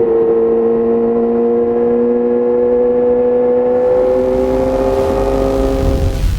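Yamaha YZF-R6 inline-four engine through an Akrapovic exhaust, running at a high, steady pitch under throttle that rises slowly, then cuts off abruptly near the end.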